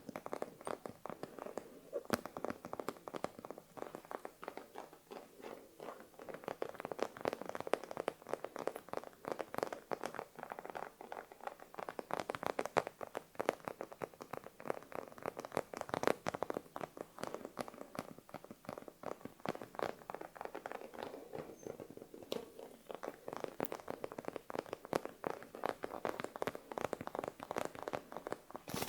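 Close-miked ASMR trigger sounds: a dense, continuous stream of soft clicks and crackles right at the microphone.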